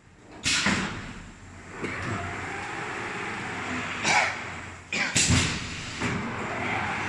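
Filter production machinery running steadily, with sudden sharp mechanical clacks about half a second in, around four seconds in, and a quick double clack around five seconds in.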